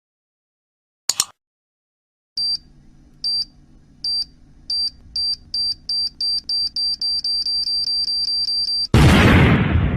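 Time-bomb sound effect: a short double click, then from about two seconds in a high electronic beep repeating faster and faster until it runs into one continuous tone, cut off about nine seconds in by a loud explosion that dies away.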